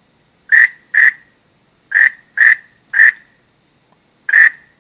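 Frog croaking: six short, sharp croaks, two close together, then three, then one more near the end.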